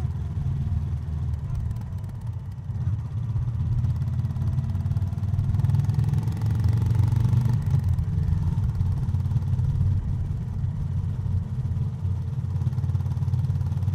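Honda GB350's air-cooled single-cylinder engine and exhaust running under way with a steady low thump. It grows louder for a couple of seconds about six seconds in, then settles.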